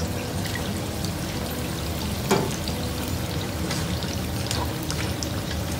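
Prawns, onion and tomato sizzling steadily in oil in a wok as julienned carrots are tipped in, with one short knock about two seconds in.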